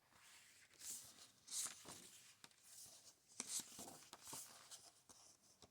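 Faint paper rustling as the pages of a book are handled and turned, in several short swishes.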